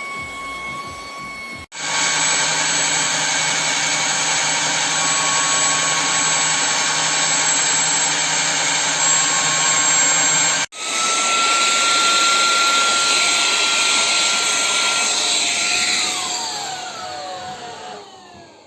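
Cordless stick vacuum cleaner running with a loud, steady motor whine, cutting off abruptly twice. About three seconds before the end it is switched off and the whine falls in pitch as the motor spins down.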